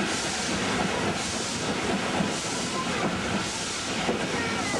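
Two W-class steam locomotives working a train: steam exhaust chuffing as hissing surges about once a second over a steady rumble of the train running on the rails.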